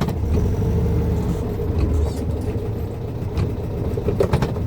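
Volkswagen Fusca's air-cooled flat-four engine running at low speed while the car creeps into a parking spot, with a couple of short clicks.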